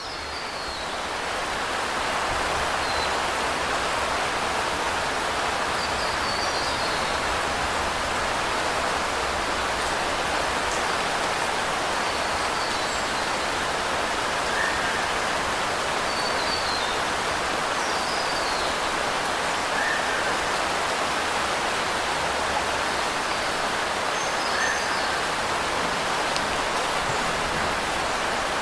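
Steady rain falling, an even wash of noise that fades in over the first two seconds and then holds level.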